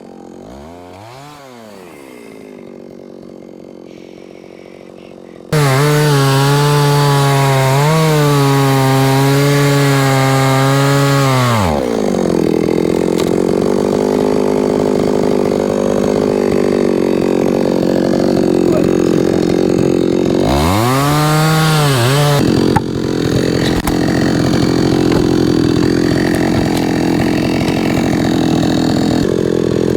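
Chainsaw cutting logs into firewood. After a brief rev, it runs loud at full throttle for several seconds, then drops in pitch as it bogs into the wood. Later it briefly revs freely again before going back into the cut.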